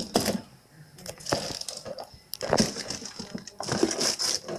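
Frozen items and their plastic packaging clattering, crinkling and knocking in short bursts as they are handled and put into a refrigerator's freezer.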